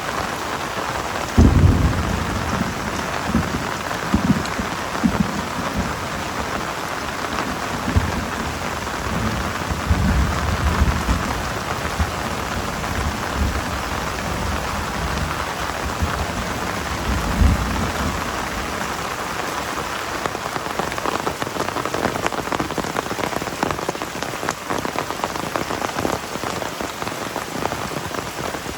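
Heavy rain falling steadily. A low thunder rumble starts suddenly about a second and a half in, rolls on in swells, and dies away a little past halfway.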